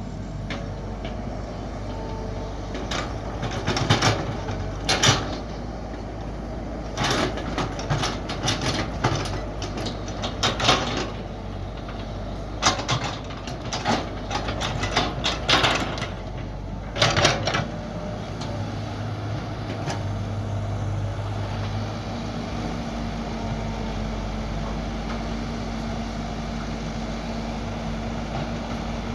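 Mini excavator engine running steadily under work, with a string of sharp clanks and scrapes from the bucket digging through the first half. In the last third the knocking stops and a higher steady tone joins the engine drone.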